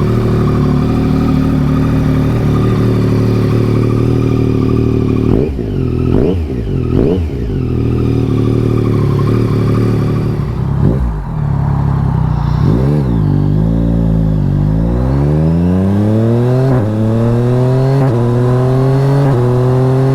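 Yamaha Tracer 9 GT+ three-cylinder engine breathing through a full Akrapovic race exhaust with the baffle removed. It idles steadily, is blipped sharply several times, then pulls away, rising in pitch through several gear changes.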